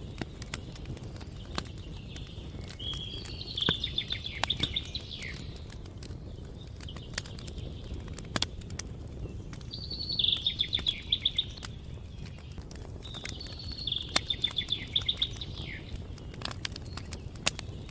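A songbird singing three trilled phrases of rapid notes, a few seconds apart, over the scattered crackle and pops of a campfire and a steady low rumble.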